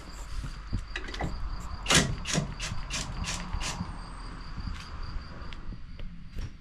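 Irregular sharp clicks and knocks of tools and parts being handled at a workbench, with one louder knock about two seconds in, over a low steady hum.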